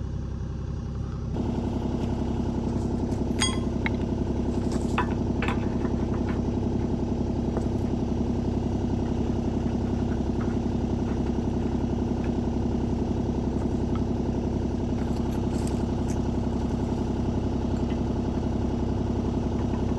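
Kubota U35-4 mini excavator's diesel engine running steadily, growing louder about a second in, with a few light metallic clicks as the new bucket is worked onto its pin.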